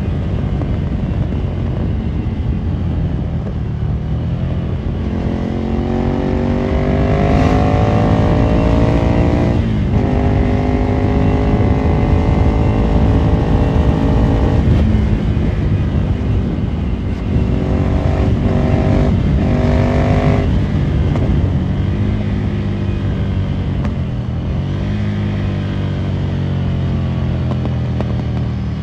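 Ducati Monster 797's air-cooled L-twin through a Termignoni exhaust, pulling up through the gears. Its pitch climbs, drops sharply at each shift several times, then falls away and settles into a lower, steady note near the end.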